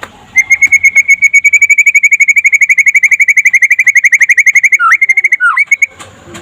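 White-rumped shama (murai) singing a trotol: a loud, rapid run of the same high note repeated about fourteen times a second for over four seconds, ending with two downward-swooping notes and a few short notes.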